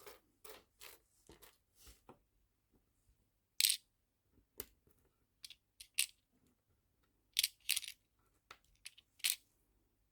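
Small nail-art charms clicking and clinking as they are handled and dropped into small storage boxes: a run of short, sharp ticks and clicks, with a few louder clinks spread through.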